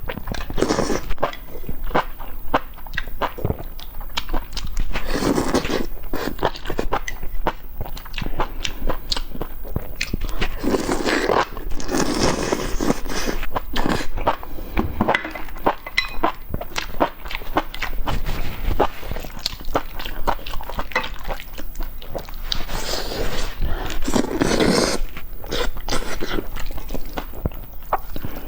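A person eating close to the microphone: irregular chewing and mouth sounds with many small clicks.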